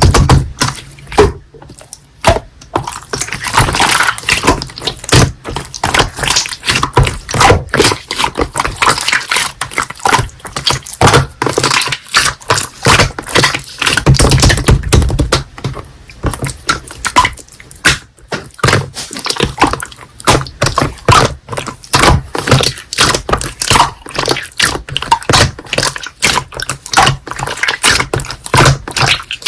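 Slime being squeezed, pressed and stretched by hand, making a fast, irregular run of sticky clicks, pops and squelches.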